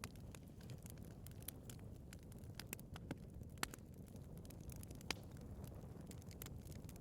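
Wood burning in a fireplace: a steady low flame noise with frequent small crackles and pops. The sharpest pops come about three and a half and five seconds in.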